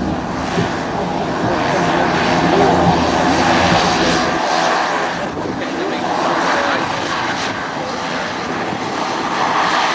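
Twin turboprop engines of a C-23 Sherpa running steadily as it taxis, a constant drone with level tones in it that swells slightly a couple of seconds in.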